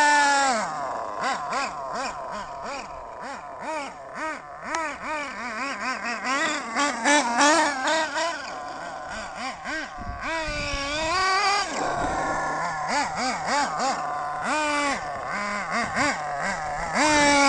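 SH .18 two-stroke nitro engine in a 1/8 RC buggy being revved up and down in repeated quick throttle blips, with a longer rev about ten seconds in, as its high-end needle is tuned.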